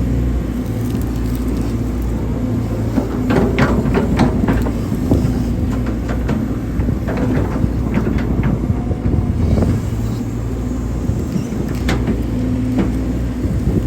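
Hydraulic excavator's diesel engine running steadily while digging, with irregular metallic clanks and knocks from the machine working at several points.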